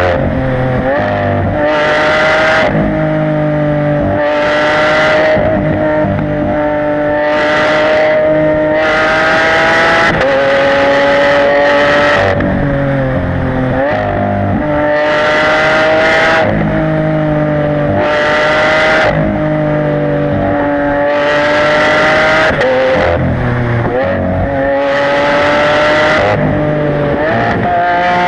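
Lamborghini Aventador LP700-4's V12 engine through its factory racing exhaust, running continuously under way, its note rising gently and dipping again every few seconds, with repeated bursts of hiss over it.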